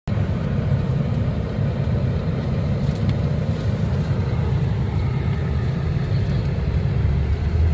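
Steady low rumble of a car driving, with no distinct knocks or changes.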